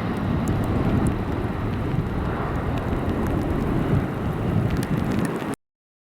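Low, steady rumble of a departing Boeing C-17A Globemaster III's four Pratt & Whitney F117 turbofan engines, mixed with wind buffeting the microphone. The sound cuts off suddenly near the end.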